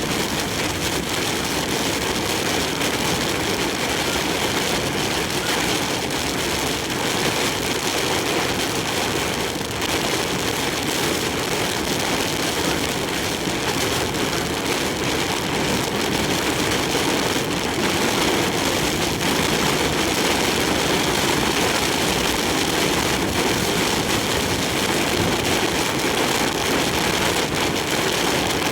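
Heavy typhoon rain and strong crosswind on a large truck driving on the expressway, with the truck's engine and road noise underneath, making a steady, dense noise.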